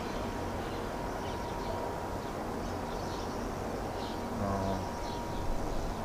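Faint bird chirps over a low steady outdoor rumble, with one short low call about four and a half seconds in.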